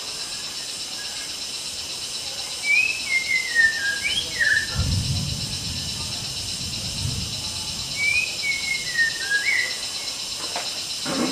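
White-rumped shama singing: two short phrases of clear whistled notes, each stepping down in pitch, about five seconds apart. The second phrase nearly repeats the first.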